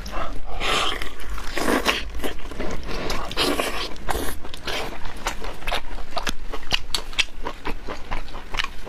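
Close-miked eating: a person biting into and chewing lamb-chop meat, with a dense run of wet smacking clicks and short tearing or slurping noises.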